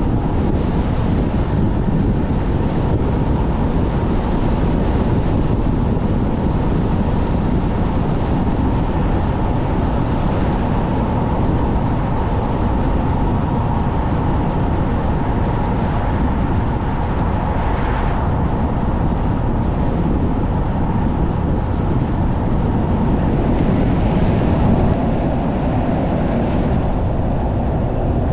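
Car driving in extremely strong wind: a loud, steady rumble of wind noise together with the car's road noise.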